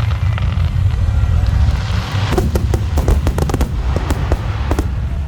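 Aerial fireworks: a rapid run of sharp crackles and pops starts about two seconds in and thins out toward the end, over a steady low rumble.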